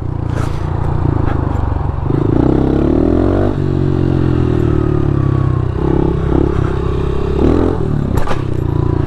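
Honda CRF110 pit bike's small single-cylinder four-stroke engine running as the bike is ridden, its pitch rising and falling with the throttle. There are a couple of sharp knocks, one near the start and one about eight seconds in.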